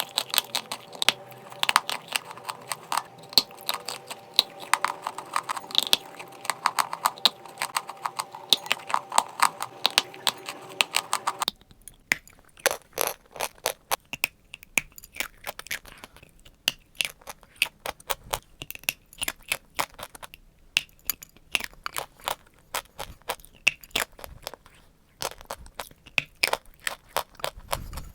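Close-up crunching of chalk being bitten and chewed: a fast, irregular run of sharp crackles and crunches. A steady background hum under the crunching stops abruptly about eleven seconds in, and the crunching carries on over a quieter background.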